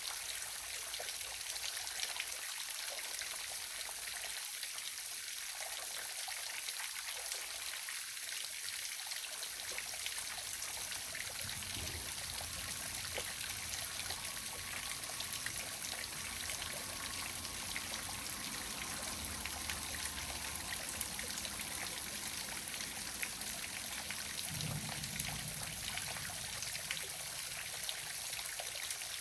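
Small waterfall splashing and trickling in a steady, even hiss of falling water. A faint low rumble joins underneath about a third of the way in.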